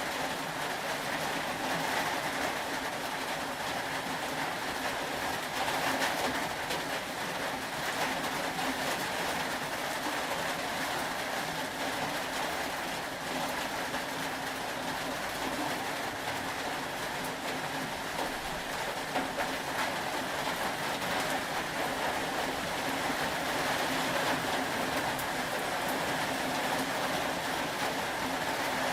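Steady rain: an even hiss of rainfall with a faint low hum underneath.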